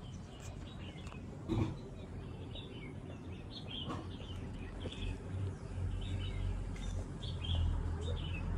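Small birds chirping in short, scattered calls over a low steady hum that grows a little louder about halfway through, with a couple of faint knocks.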